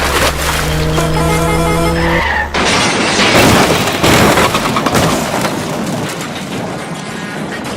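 A steady horn-like tone, then, about two and a half seconds in, a sudden loud burst of rushing noise that slowly fades away.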